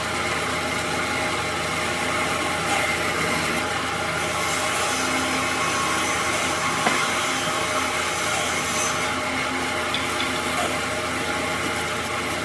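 Electric woodworking power tool running steadily, with one short click about seven seconds in.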